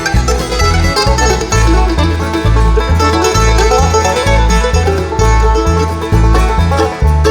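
Bluegrass band playing an instrumental break between verses, banjo to the fore over guitar, with a steady bass beat.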